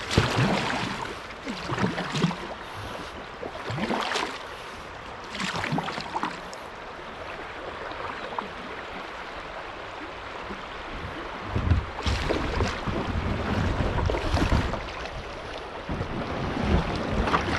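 Kayak paddle strokes splashing about every two seconds over the steady rush of water through a shallow rocky riffle. From about twelve seconds in, wind buffets the microphone with a low rumble.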